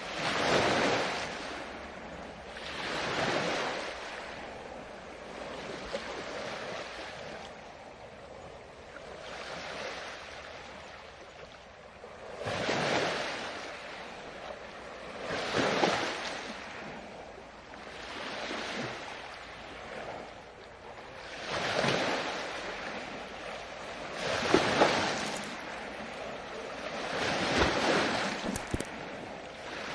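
Ocean waves breaking and washing onto the shore, one swell every few seconds rising and falling.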